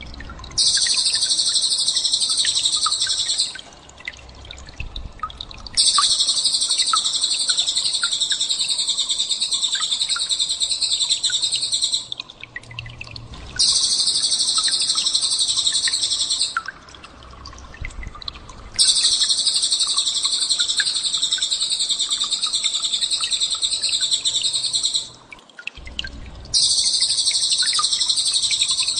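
Recorded small songbird's 'tembakan' song, a rapid, very high-pitched, shrill trill, played as masteran to train a white-rumped shama. It comes in five long bursts of several seconds each, with short pauses between them that hold only faint scattered chirps.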